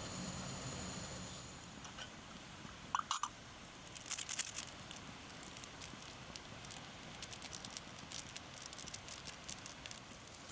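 Wood campfire crackling and popping with irregular sharp snaps, after a steady hum fades out at the start; three quick high chirps come about three seconds in.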